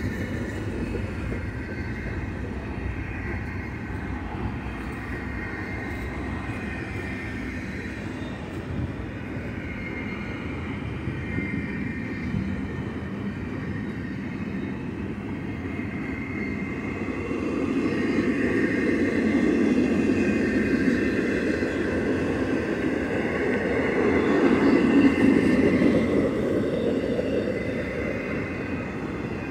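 A train rolling past: a steady rumble of wheels on rail with faint high ringing, building louder about two-thirds of the way through and then easing off.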